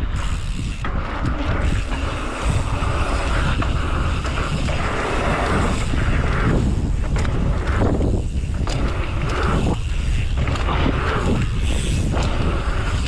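Strong wind buffeting the microphone, mixed with the low rumble of a mountain bike's tyres rolling over a pump track.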